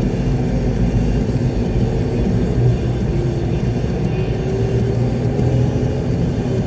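Concrete mixer truck heard from inside the cab while driving: a steady low rumble of engine and road noise.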